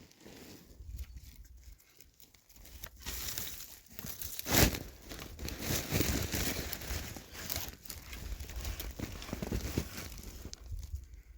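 Rustling and crunching of a person moving on foot: footsteps and clothing. It is sparse at first, busier from about three seconds in, with one louder crunch near the middle.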